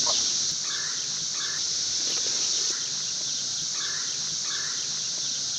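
Chorus of cicadas droning steadily at a high pitch, with a few short mid-pitched calls over it.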